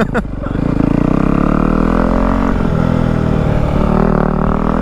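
Yamaha WR250F single-cylinder four-stroke dirt bike running through an aftermarket YZ slip-on exhaust while being ridden: the revs climb just after the start, then hold fairly steady.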